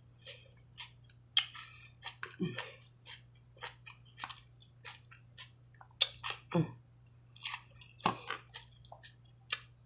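Close-miked mouth sounds of a person chewing tender oxtail meat: irregular wet clicks and smacks, with a few short low hums.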